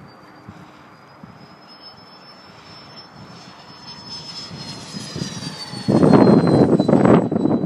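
Electric ducted-fan jet whine from an E-flite F-4 Phantom RC model, a thin high tone that grows louder and falls in pitch as the jet passes. About six seconds in, a sudden loud, ragged rushing noise takes over.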